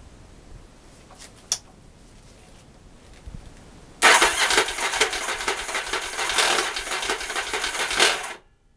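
Yamaha XV750 V-twin turned over on its electric starter for about four seconds in a fast, even cranking rhythm without firing, then stopping abruptly. The engine will not start, which the owner puts down to a clogged carburettor. A single sharp click comes about a second and a half in, before the cranking.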